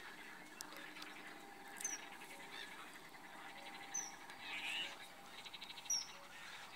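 Birds calling faintly: several short high chirps, with a couple of rapid rattling calls in between.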